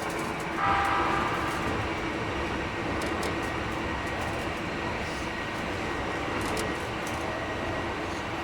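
Keikyu 1000 series electric train running at speed, heard from aboard: a steady rumble of wheels and motors. About half a second in comes a brief, louder burst of several held tones. The uploader finds this set's running sound a little noisier than other sets.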